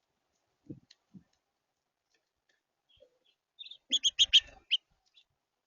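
Small songbird at a feeder chirping in a quick run of short, high notes starting a little after three and a half seconds in, after two faint low knocks about a second in.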